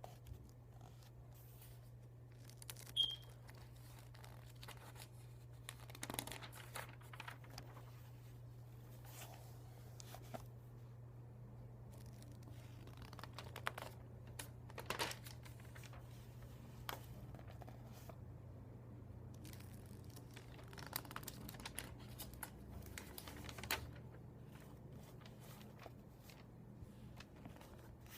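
Paper pages being turned, soft rustling swishes at irregular intervals.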